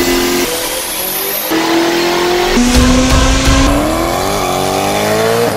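Short clips of loud performance-car engines held at high revs, cut together so the engine note changes abruptly about every second. In the last two seconds one engine revs up steadily, its pitch climbing.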